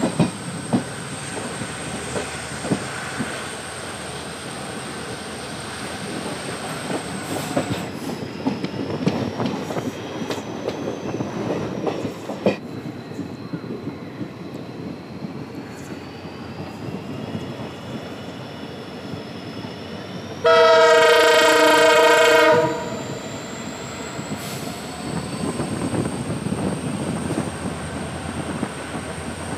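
Passenger train running along the track, heard from a carriage, with a steady rattle of wheels and coaches. About two-thirds of the way through, the locomotive sounds its horn in one blast of about two seconds.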